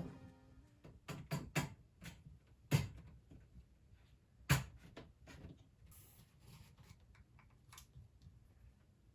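Scattered knocks and clicks of household objects being handled and set down in a small room: about a dozen short taps spread over several seconds, the loudest about three seconds and four and a half seconds in.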